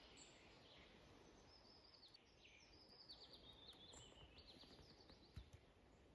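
Near silence with faint birdsong: a small bird's run of quick high notes, stepping down in pitch, between about two and five seconds in. A single soft knock near the end.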